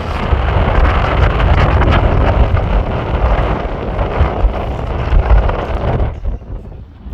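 Strong wind buffeting the microphone in loud, uneven gusts, easing off sharply about six seconds in.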